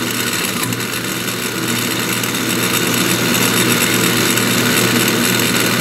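Restored 1930s Delta DP220 drill press running under power with a newly fitted replacement bearing: a steady motor hum with a whirring hiss above it, running smoothly.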